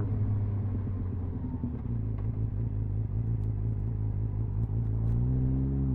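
Triumph Speed Four's 600cc inline-four engine on the move: the steady engine note drops away into a low rumble as the throttle comes off, then the revs climb again near the end as it pulls away.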